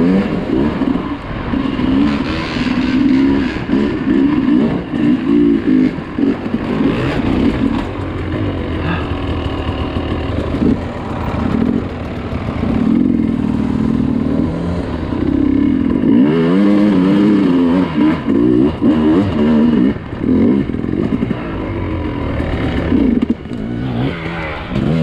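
Off-road dirt bike engine running under load, its revs rising and falling constantly as the throttle is worked over rough terrain.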